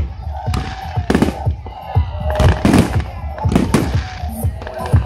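Aerial firework shells bursting, many bangs in quick succession, with music playing under them.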